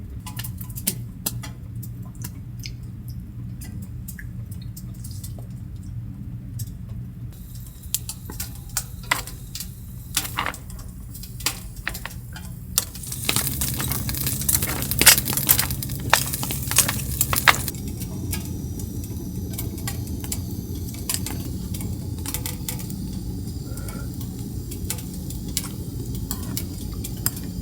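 Dishes and glassware being handled on a table: scattered clinks and taps over a steady low hum, thickening into a few seconds of hissing noise with many clicks just past the middle.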